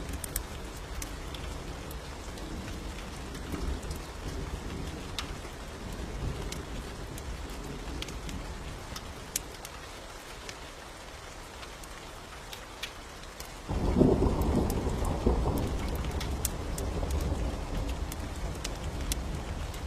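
Steady rain with scattered sharp ticks, then about two-thirds of the way through a sudden loud rumble of thunder breaks in and rolls on for several seconds, slowly fading.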